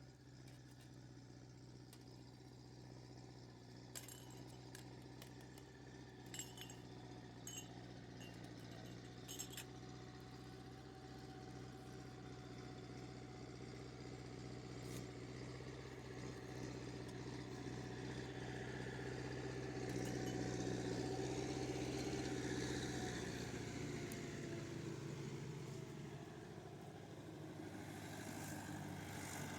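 Tractor engine running steadily, growing louder toward a peak about two-thirds of the way through, with a few light metallic clinks in the first ten seconds.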